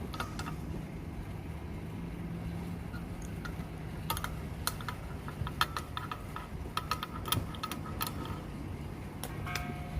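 Refrigeration vacuum pump running with a steady low hum while evacuating an air conditioner's refrigerant lines, with scattered small metallic clicks and clinks of tools or fittings being handled.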